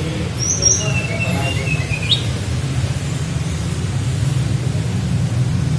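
A small flycatcher (tledekan) singing: a couple of high chirps, then a thin whistled phrase ending in a quick upward note about two seconds in. A steady low rumble runs underneath.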